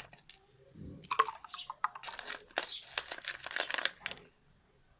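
Pieces of ice added to a jug of sattu drink: a dense run of clinks and clicks from about a second in, stopping a little before the end.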